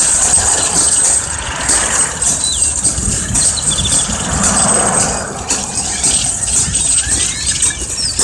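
A big mixed flock of grackles and small finches calling all at once: a dense wash of squeaks, whistles and short gliding chirps, over a low steady rumble.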